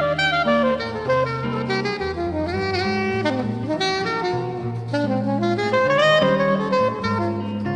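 Soprano saxophone playing a jazz melody over guitar accompaniment, with a pitch dip about three seconds in.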